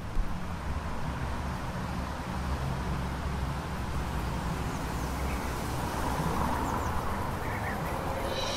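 A boat's engine running with a steady low rumble under wind and water hiss, with a few faint bird calls about five to seven seconds in.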